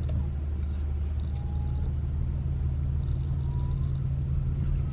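Steady low rumble of a car's engine and tyres, heard from inside the cabin as the car moves slowly.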